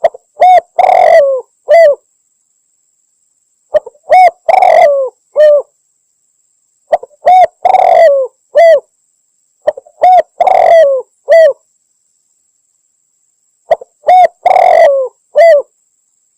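Spotted dove (tekukur) cooing from a recorded hunting lure call meant to be a female calling in males: five call phrases, one about every three seconds, each a couple of short notes, a longer coo and a clipped final note, with dead silence between them.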